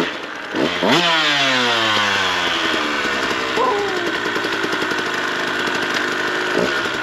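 KTM 150 single-cylinder two-stroke dirt bike engine revved in two quick blips, then its pitch falls away over a few seconds and settles into a steady run, with one more short blip of throttle near the end.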